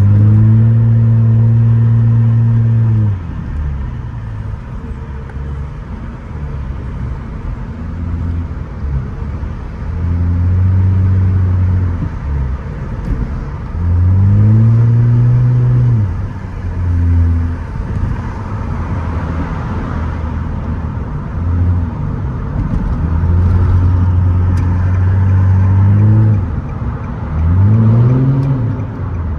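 Straight-piped Nissan Altima exhaust under hard throttle, loud and droning, with the revs climbing and falling away several times as the car accelerates and lets off.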